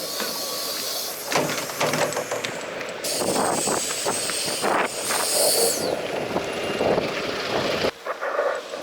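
Large vehicle such as a bus, running with a hiss of compressed air that falls in pitch and cuts off about six seconds in, among clatter and knocks.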